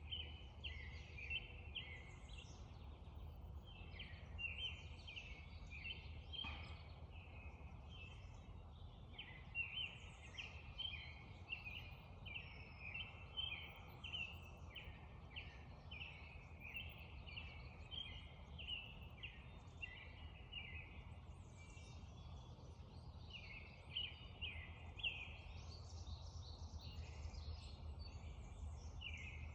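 Songbirds singing at dawn: runs of quick, repeated chirping notes, bunched into phrases every second or two and overlapping, over a faint steady low rumble.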